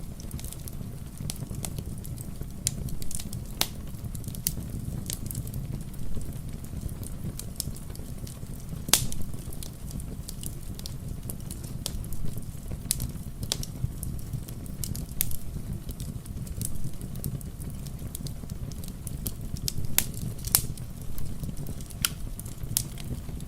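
Wood fire crackling, with sharp pops at irregular intervals, the loudest about nine seconds in, over a steady low rumble.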